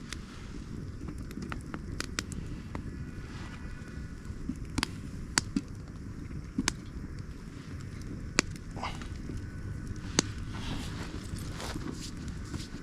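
Campfire crackling: about ten sharp, scattered pops over a low, steady rumble.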